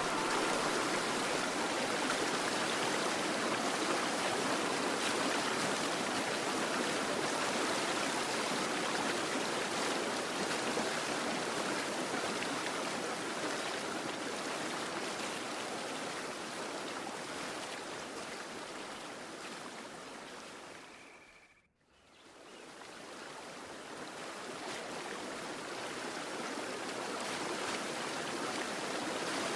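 Steady rushing of a flowing stream. It fades out to near silence about three-quarters of the way through, then fades back in.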